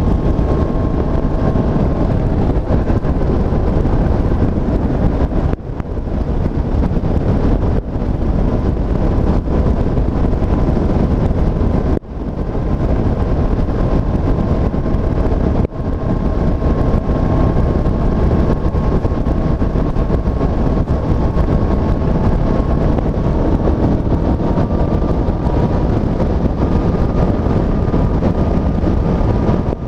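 Honda CB500F's parallel-twin engine running under way, heard from the moving motorcycle with heavy wind noise on the microphone. The engine note drops briefly four times and climbs slowly in pitch in the later part.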